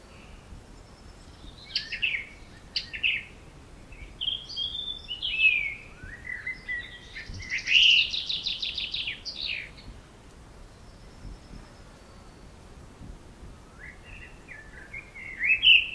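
A songbird singing in bursts of quick, varied whistled phrases, with a fast trill about eight seconds in; it pauses for a few seconds before another phrase near the end. A low steady background rumble runs underneath.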